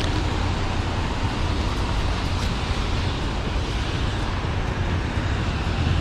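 Steady city traffic noise: a continuous low rumble with a broad hiss of passing road traffic.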